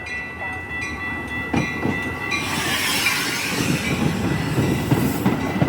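Train passing close by. A steady high ringing tone with regular strikes fills the first half, then about halfway in a loud rushing hiss takes over, with a low rumble and wheel clatter.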